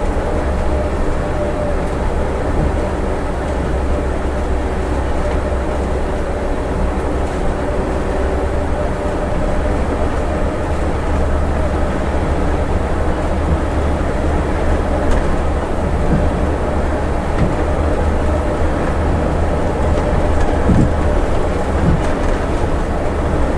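Steady drone of a Scania bus's diesel engine and driveline with road noise, heard from inside the cab while it runs downhill held in fourth gear on its Comfort Shift gearbox. A few light knocks come through late on.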